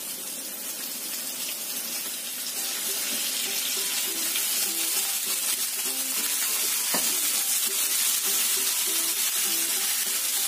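Raw chicken pieces sizzling in hot oil with garlic and ginger in a frying pan as they are put in, the sizzle growing louder as more go in. A single short click about seven seconds in.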